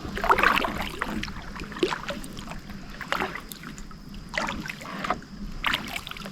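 Kayak paddle dipping and pulling through shallow water, with short splashes and drips coming every second or so.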